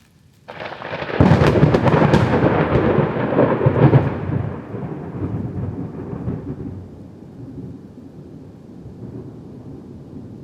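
A thunderclap: a sharp crack about half a second in breaks into a loud crackling rumble that peaks over the next few seconds, then rolls on and fades slowly.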